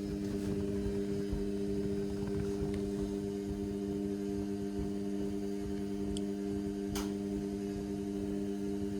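Indesit washing machine running a synthetics wash with heavy suds, giving a steady electric hum, with a brief click about seven seconds in.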